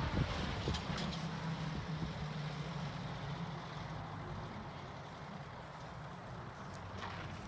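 1962 Jeep M170's four-cylinder engine running steadily: a low, even engine drone.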